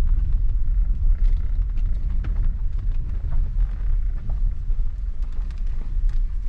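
Low, steady rumble of a vehicle on the move, with scattered small rattles and clicks.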